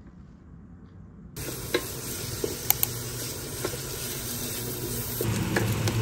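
Chopped onions and garlic sizzling in a stainless steel saucepan, with a wooden spatula knocking and scraping against the pan as they are stirred. The sizzling starts suddenly a little over a second in, after a quiet start.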